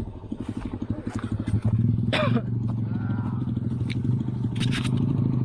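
Motorcycle engine running on an off-road ride, pulling harder and louder from about a second and a half in. A few knocks and clatter come over it.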